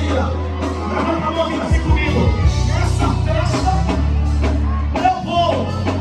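Live Christian band music with a singer's voice over a sustained bass line.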